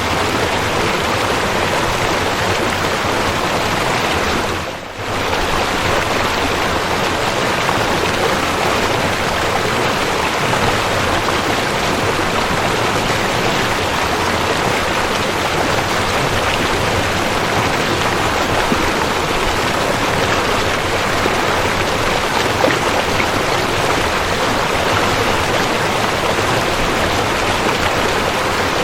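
Waterfall rushing steadily in a dense, even wash of falling water, with one brief dip in level about five seconds in.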